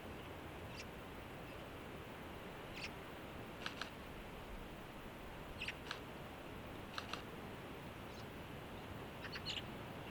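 Faint steady hiss of an airband radio receiver between air traffic control transmissions, with short high chirps every second or two.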